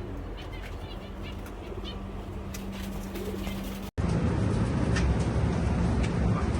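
Pigeons cooing, with small birds chirping over a steady low hum. About four seconds in, it cuts abruptly to a louder rushing noise.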